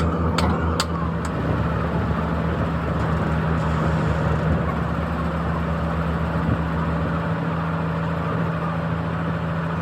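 Engine running steadily at a constant speed, with an even low pulse. Three sharp knocks come in the first second or so.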